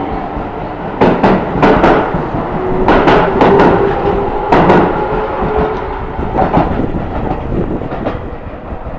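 Keio Line electric train's wheels clacking over rail joints and pointwork in quick groups, with a steady hum under them for a couple of seconds in the middle; the clatter grows fainter in the last few seconds as the train moves away.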